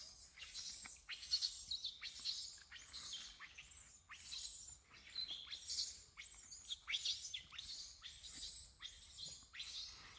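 Many short, high-pitched chirping calls in quick succession, several with falling pitch.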